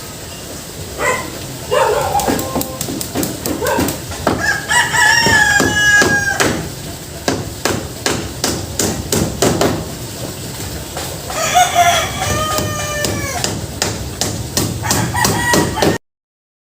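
A rooster crowing twice, a long call about four and a half seconds in and another about eleven seconds in, over a rapid run of sharp knocks. The sound cuts out near the end.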